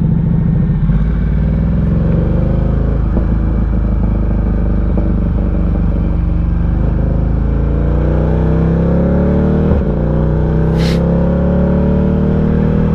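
Ducati Diavel 1260's 1262 cc V-twin running under load, its pitch climbing steadily as it accelerates. There is a brief click and dip in the sound about ten seconds in.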